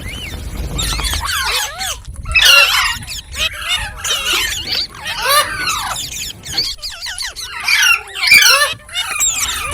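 Indian ringneck parakeet chattering and squawking: a rapid, high-pitched run of short calls, with brief pauses about two seconds in and around seven seconds in.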